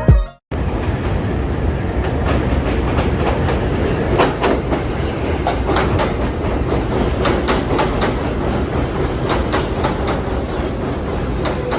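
R143 subway train running along the track, a steady rumble with the wheels clicking irregularly over rail joints. It starts about half a second in, right after a short burst of music cuts off.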